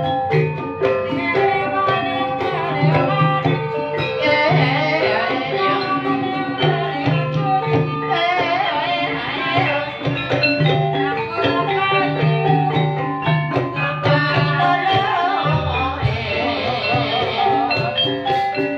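Live ebeg dance music from a Javanese gamelan-style ensemble: struck keyed instruments ring out steady melodic notes over a regular low drum pattern. A wavering melody line comes in over the ensemble three times, with the ensemble playing on throughout.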